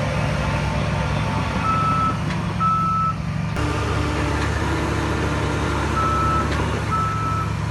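Heavy diesel earth-moving machine running steadily while its reversing alarm sounds four short beeps on a single high tone, in two pairs: one pair a couple of seconds in, the other near the end.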